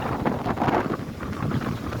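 Strong gusting wind buffeting the microphone, over lake waves crashing on the shore.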